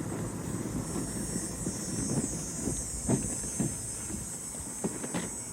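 Footsteps walking, with irregular low knocks and rumble from the carried camera, over a steady high hiss.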